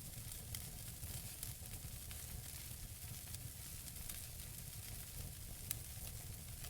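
Wood fire burning in a fireplace: logs crackling with many small irregular pops over a soft steady hiss, and one sharper pop near the end.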